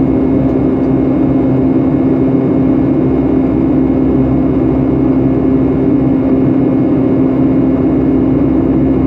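Steady cabin drone of a Boeing 757-300 jetliner, heard from a window seat: engine and airflow noise with a steady low hum running through it.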